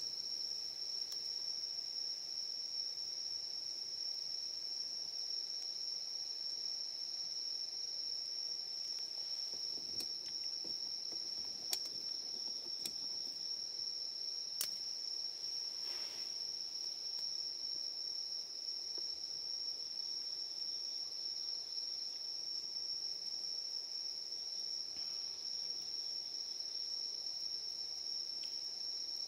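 Steady chorus of night insects singing, one continuous high shrill note, with a few short sharp clicks over it.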